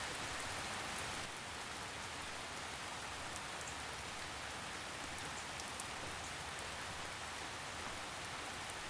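Steady rain falling on forest leaves: an even hiss with scattered small drop ticks.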